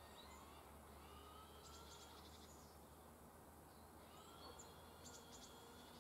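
Near silence: faint outdoor ambience with a few short, high bird chirps, in small clusters about two seconds in and again near five seconds.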